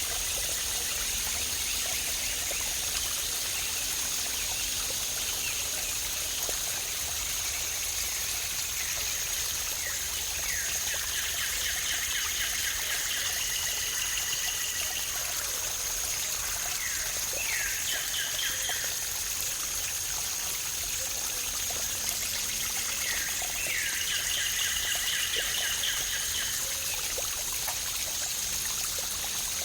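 Running water of a stream or cascade, a steady splashing trickle. A bird calls three times in rapid trilled phrases, starting about a third of the way in, over a thin steady high tone.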